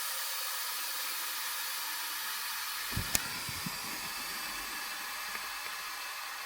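Let's Resin resin bubble remover machine running with a steady hiss, with a couple of short clicks about three seconds in.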